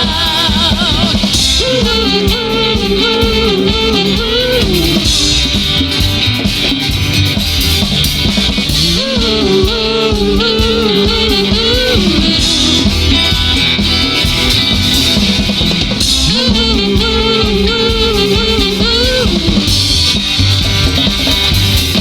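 Live rock band playing an instrumental break. A lead melody with bent notes repeats in phrases roughly every seven seconds over steady drums and bass.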